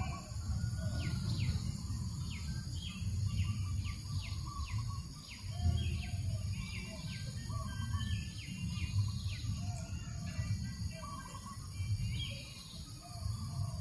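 Birds calling: a run of quick downward-sweeping notes, about two a second, with softer chirps beneath, over a steady low rumble of breeze on the microphone.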